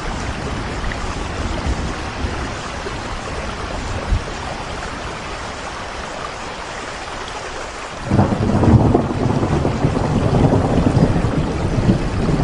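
Steady rain falling, an even hiss. About eight seconds in, a loud low rumble sets in suddenly and keeps going over the rain.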